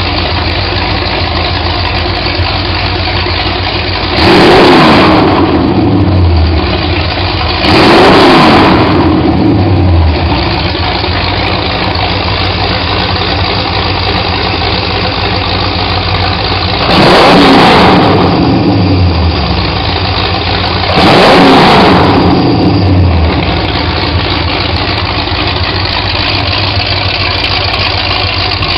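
Ford 302 small-block V8, built to 352 hp, running on an engine test stand through open, unmuffled headers: a steady idle broken by four quick throttle blips, in two pairs, each revving up sharply and falling back to idle over about two seconds.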